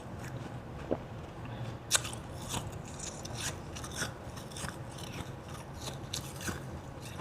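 Ice being bitten and chewed: a string of irregular crisp crunches and crackles, the sharpest about two seconds in.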